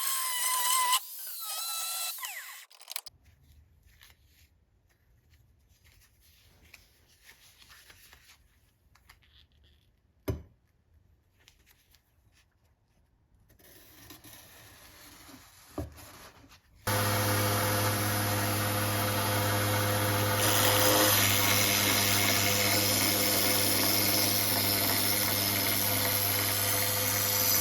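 A wavering whine dies away in the first few seconds, followed by a quiet stretch broken by two short knocks. Well over halfway through, an electric power tool starts suddenly and runs steadily with a low hum and a hiss, working the metal.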